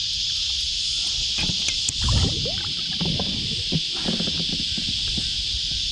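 Steady high insect drone throughout, with irregular knocks, clicks and low thumps of handling on a kayak between about one and a half and five seconds in.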